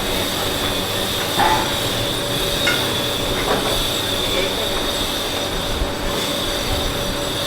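Noodle shop ambience: a steady machine-like hum with a constant high whine, broken by a few short clinks.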